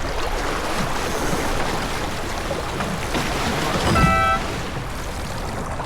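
Wind and water rushing along the hull of a J24 sailboat under way, with one short horn blast about four seconds in, the signal sounded as a racing boat crosses the finish line.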